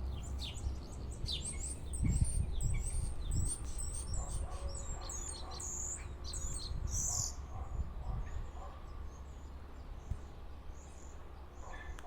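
A small songbird singing a fast run of high chirps and whistles, many of them sliding in pitch; the song thins out after about seven seconds to a few scattered soft calls.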